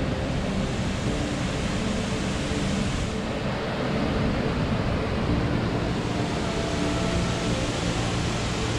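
Steady roar of a waterfall, with faint background music.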